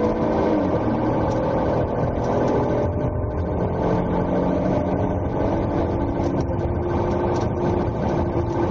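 Engine and road noise from inside a police cruiser in pursuit, with the engine note shifting up and down in pitch as it works through a turn.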